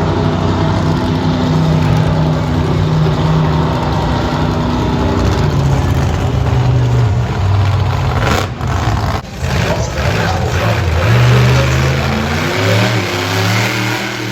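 Monster truck engine running hard, its pitch rising and falling with the throttle. A little past halfway it drops away briefly twice, then revs climb again toward the end.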